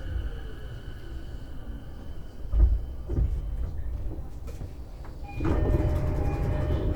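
E233-series electric train's electric drive whine falling away as the train comes to a halt, then two heavy thuds about two and a half and three seconds in, typical of the passenger doors sliding open. Near the end the sound steps up to a louder, busier noise with a steady tone through it.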